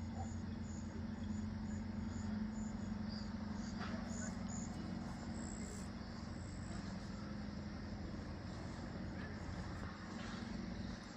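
An engine running steadily with a low, even hum, with insects chirping faintly in a quick repeated rhythm above it.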